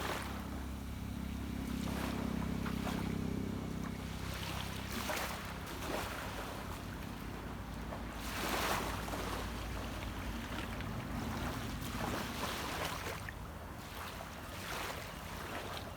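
Sea waves washing onto a beach, surging every few seconds, with the low hum of a distant boat engine underneath, strongest in the first few seconds.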